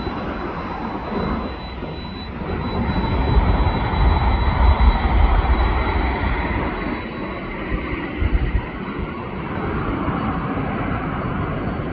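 Airplane engine noise from a passing aircraft, swelling to its loudest about four to five seconds in and then easing, with a faint steady high whine early on. Gusty wind buffets the microphone.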